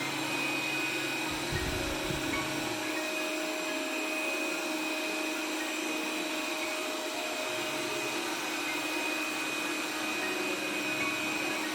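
Xiaomi Robot Vacuum S10 running steadily: a suction-fan hiss with a hum and a high whine, and a brief low rumble about one and a half seconds in.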